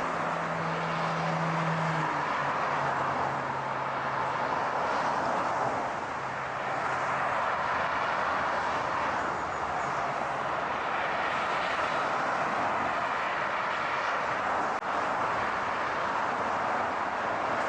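A car driving: a steady rush of road and wind noise, with a low hum underneath. The hum drops in pitch a couple of seconds in and fades out about halfway through. A single click comes near the end.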